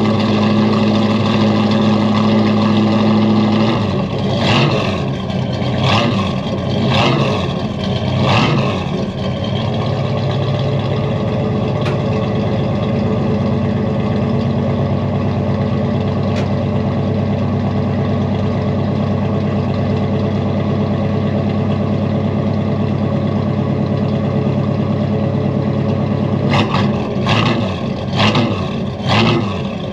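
Cold-started Ford 460 big-block V8 in a 1984 F250 running on fast idle, the idle dropping to a lower, steady speed about four seconds in. It is then blipped four times in quick succession, idles steadily, and is blipped four more times near the end.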